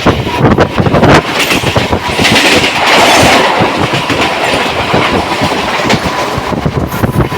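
Train running along the track, its wheels clattering rapidly over the rails, with a loud rushing noise that swells for a second or so about a third of the way in.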